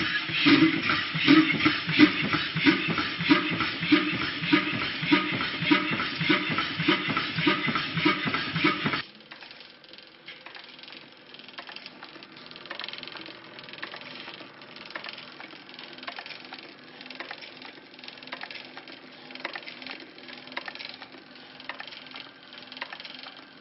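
Engine running with a regular pulse, which cuts off abruptly about nine seconds in. A much quieter mechanical sound with faint ticking follows.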